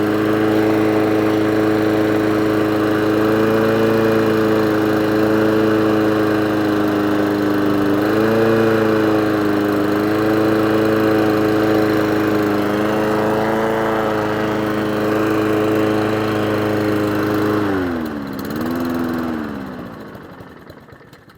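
Single-cylinder four-stroke Honda engine on a Mountfield rotary lawnmower running steadily after starting, its speed wavering up a little now and then. Near the end it dips, picks up briefly, then runs down and stops. The uneven running shows the carburettor needs some idle adjustment.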